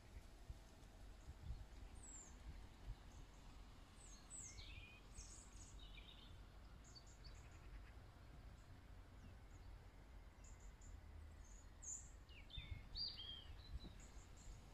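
Faint outdoor ambience: scattered short bird chirps and calls, busier near the end, over a low steady rumble.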